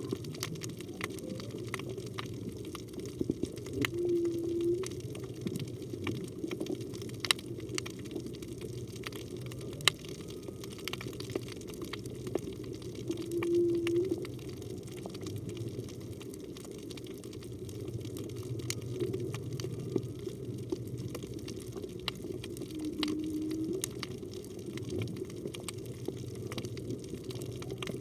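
Underwater whale song, which the recordist takes to be a humpback whale: three short held notes, each under a second and about nine seconds apart. Behind them run a steady rush of seawater and scattered sharp clicks.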